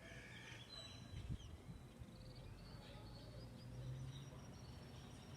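Faint background birdsong: several birds singing, with short chirps and thin whistled notes overlapping. A brief low thump about a second in, with a steady low rumble underneath.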